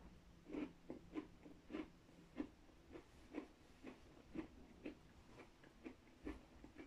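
Faint crunching of a person chewing a cream-filled cookie with the mouth closed, about two soft chews a second.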